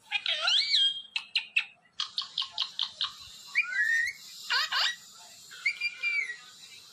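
A parrot whistling and chirping: a rising-and-falling whistle, a quick run of short chirps about two seconds in, then warbling whistles and a falling sweep.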